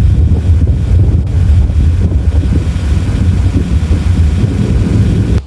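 Strong wind buffeting the microphone in a loud, steady low rumble, which cuts off suddenly near the end.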